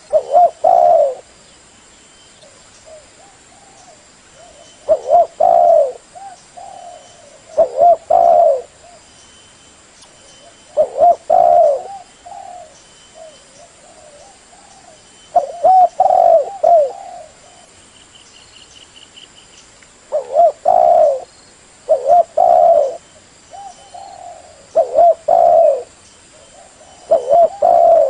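Spotted dove cooing: repeated phrases of two or three low, throaty coos every few seconds, with softer single notes between them.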